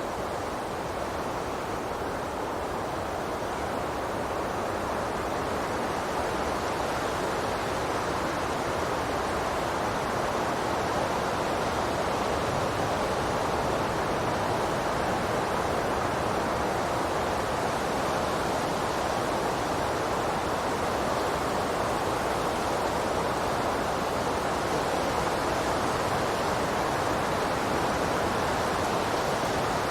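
Steady rushing of flowing water, an even hiss with no birdsong heard over it, growing slightly louder in the first part.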